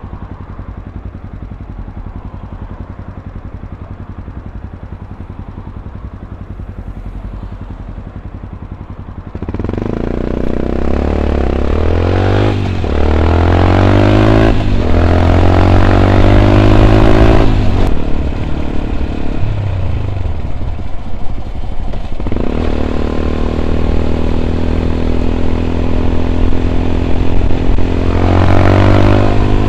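Yamaha WR 125 X's single-cylinder four-stroke engine through an Arrow exhaust with a dB killer, running low and steady for about nine seconds, then pulling away: the revs climb and drop back through several upshifts, settle into a steady cruise, and rise again near the end.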